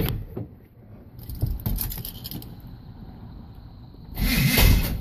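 Light clunks and scrapes, then about four seconds in a single loud burst under a second long: the cold 1982 Chevy pickup engine backfiring as it is cranked with no choke.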